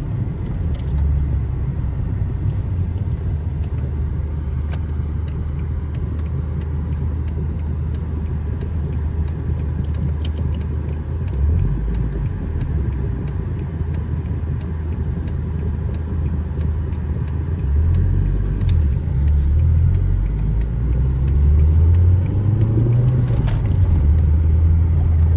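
Car engine running with a low rumble, with the engine note shifting a few times. Near the end it grows louder and rises in pitch as the car accelerates. The car is a 2001 Volkswagen Jetta with a 1.8-litre turbo four-cylinder.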